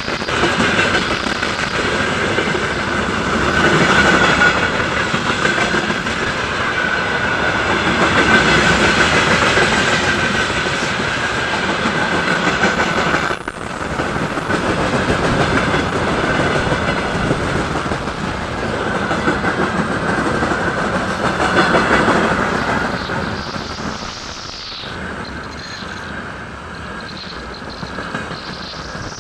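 Freight train wagons rolling past, wheels clattering over the rail joints with a steady high-pitched whine from the wheels. The noise eases about three quarters of the way through as the end of the train goes by.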